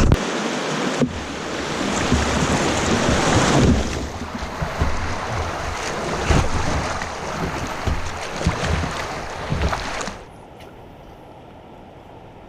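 Creek water rushing through a shallow shoal around a kayak, mixed with wind on the microphone. About ten seconds in it cuts off suddenly to a much quieter background.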